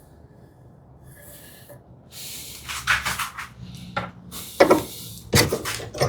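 Wooden workpieces and hand tools being handled on a workbench: rubbing and scraping that grows louder about two seconds in, with a few sharp wooden knocks near the end.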